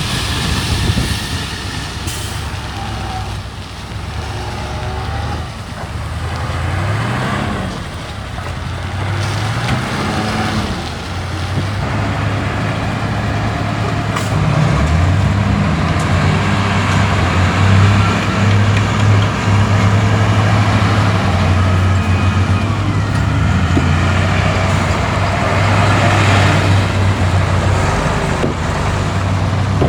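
Heavy diesel engine of earthmoving machinery running hard, its pitch rising and falling several times as it revs up and eases off, growing louder past the middle, with hissing noise over it.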